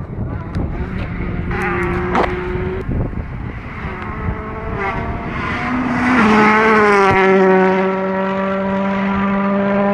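Volkswagen Polo R WRC rally car's turbocharged 1.6-litre four-cylinder engine running, with a few sharp pops in the first half. About six seconds in, the engine settles into a steady, louder note that holds to the end.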